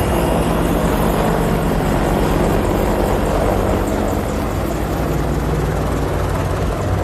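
AH-64 Apache helicopter's rotor and turbine engines running, a loud steady rotor noise.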